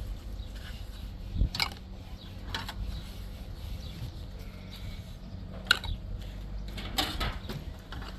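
A few scattered sharp clicks and knocks over a steady low hum.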